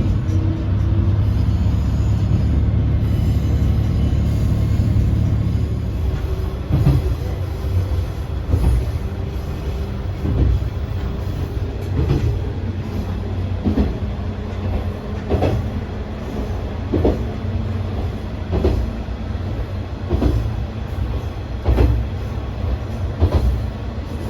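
Train running on rails: a steady low rumble, then, from about six seconds in, the clack of wheels over rail joints about every one and a half seconds, coming slightly faster as the train picks up speed.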